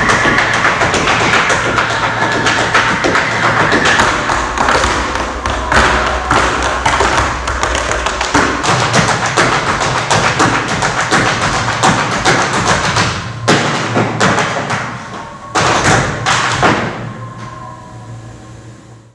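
Tap shoes beating out fast rhythms over music with sustained low bass notes, the sound fading out near the end.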